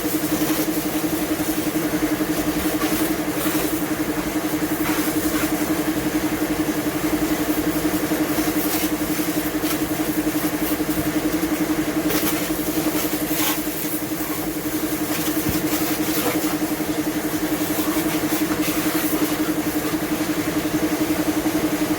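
A motor running steadily with a constant hum, under a wide hiss that swells briefly now and then.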